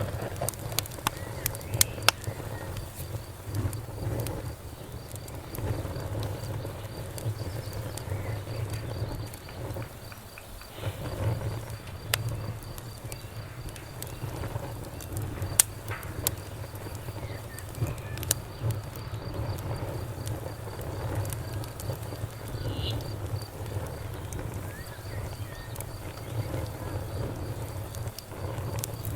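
Campfire burning, with scattered sharp crackles and pops over a low steady rumble of the flames. Crickets chirp steadily in a quick, even rhythm.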